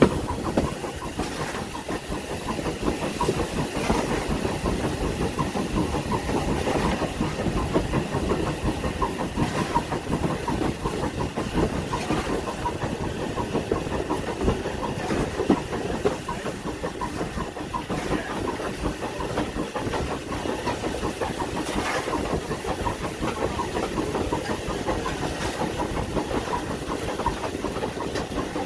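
Heritage railway train running along the line: a steady rumble and hiss of the train in motion, with a faint knock from the wheels every few seconds.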